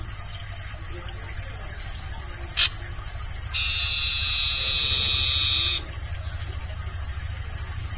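Barn owl giving one harsh, buzzy screech of about two seconds, starting about three and a half seconds in and cutting off abruptly, preceded a second earlier by a brief sharp note. A low steady hum runs underneath.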